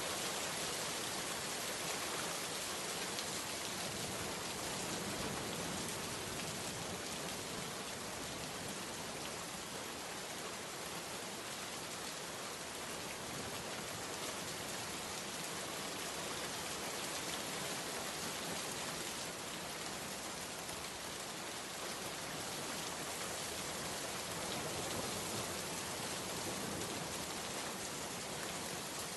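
Steady heavy rain falling on hard surfaces, a dense even hiss of many drops with no thunder.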